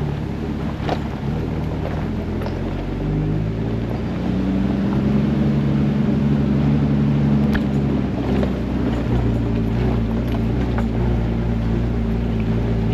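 Jeep engine running on an off-road trail. Its revs climb about four seconds in and ease back near nine seconds, with a few sharp knocks and rattles along the way.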